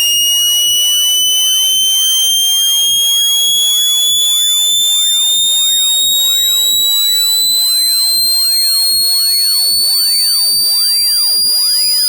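Loud, high-pitched electronic speaker-cleaning tone with overtones, slowly rising in pitch at steady loudness. It is a generated tone whose vibration is meant to push trapped water and dust out of a phone speaker.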